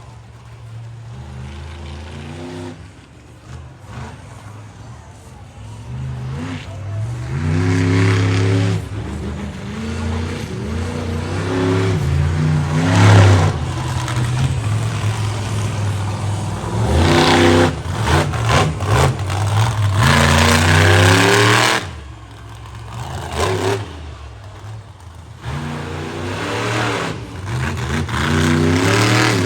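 Monster truck's supercharged V8 engine revving hard in repeated surges, its pitch climbing and dropping several times, with short lulls where the throttle comes off.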